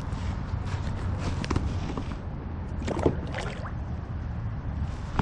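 Water sloshing and splashing around a fishing kayak, with a steady low wind rumble on the microphone and a few sharper splashes or knocks about three seconds in.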